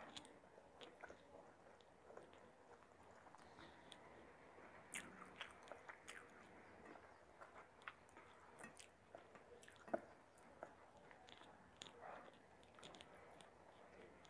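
Faint close-miked chewing of a mouthful of chicken biryani, with soft clicks scattered throughout, the sharpest about ten seconds in.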